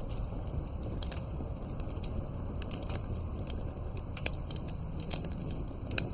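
Campfire burning, with a steady low rumble of flames and frequent sharp crackles and pops at irregular intervals.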